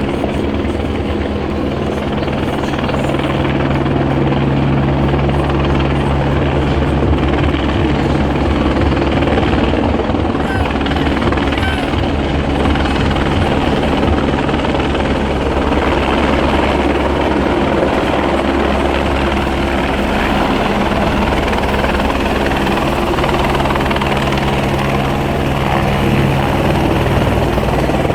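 CareFlight medical helicopter running close by, its rotor beating steadily and loudly.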